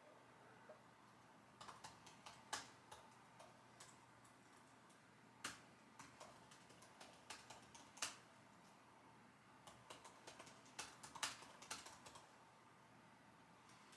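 Typing on a computer keyboard: three short spurts of irregular keystroke clicks with pauses between them.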